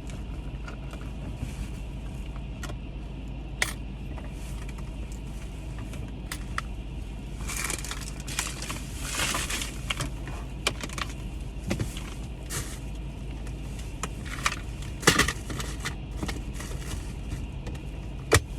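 Trash and wrappers being gathered and stuffed into a bag inside a car: rustling, crinkling and scattered knocks, with a sharp knock about fifteen seconds in, over a steady low hum.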